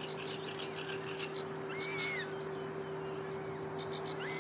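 A songbird singing short, arched whistled notes, rising and falling, mixed with quick higher chips, over a steady low hum.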